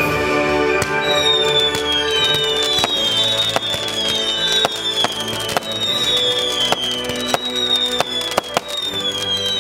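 Fireworks display set to music: many bangs and crackling shots over music that plays throughout, with short high whistles falling in pitch about once a second.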